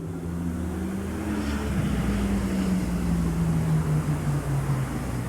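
ChS2K DC electric locomotive hauling a passenger train past, its hum of several tones slowly falling in pitch over a steady rumble.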